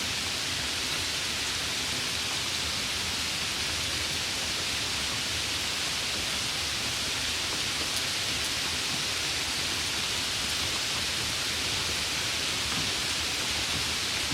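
Steady summer rain, an even, unbroken hiss with no single drops standing out.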